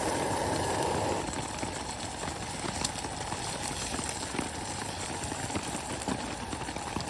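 Steady rain pattering on a tarp, a dense hiss of many small irregular drop ticks, heavier in the first second.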